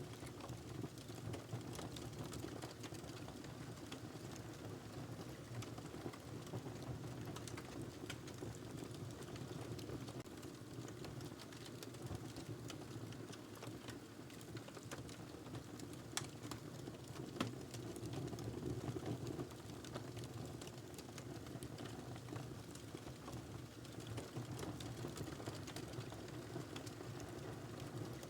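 Wood fire burning in a fireplace: a steady low rush of flame with scattered crackles and pops, and two sharper pops a little past halfway.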